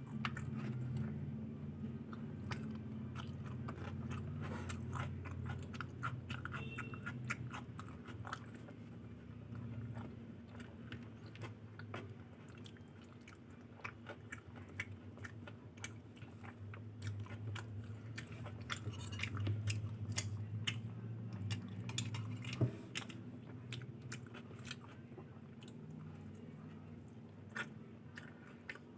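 Close-miked chewing and biting of someone eating luchi with ghughni and aloor dum: a steady run of small wet mouth clicks and smacks.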